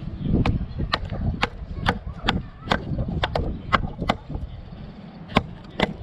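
Batoning: a wooden baton knocks on the spine of a bushcraft knife to split firewood. The sharp knocks come about two a second, with a short pause about four seconds in.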